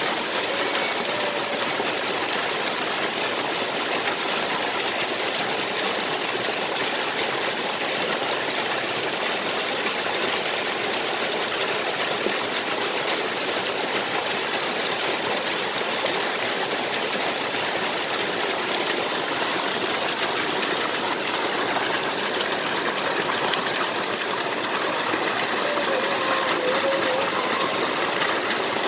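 Waterfall and stream water rushing in a steady, unbroken stream of noise.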